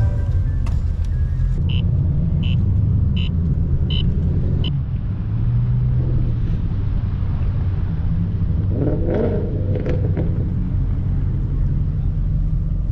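Car engine running with a steady low rumble. About five short, evenly spaced high beeps, under a second apart, sound in the first five seconds.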